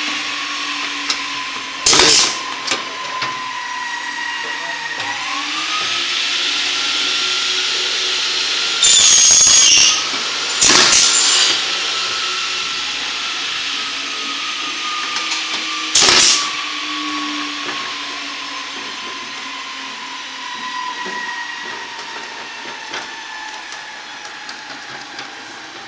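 An electric power tool's motor running steadily, its whine drifting slowly down and up in pitch. Several short, loud noisy bursts come about 2, 9, 11 and 16 seconds in.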